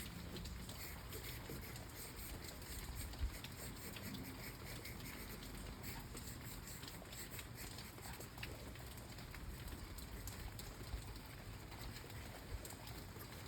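Soft, irregular light tapping and pattering over a steady hiss, with one sharper tick about three seconds in.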